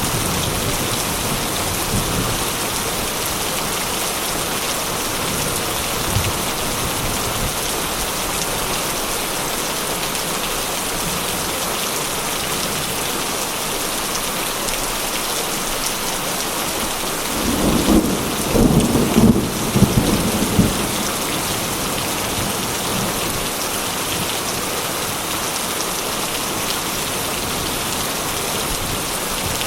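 Steady heavy rain. About two-thirds of the way through, a rumble of thunder swells for a few seconds.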